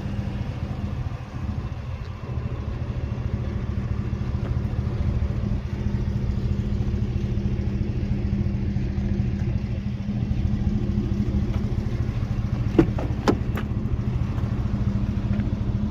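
An engine idling steadily with a low, even hum, and two sharp clicks about 13 seconds in.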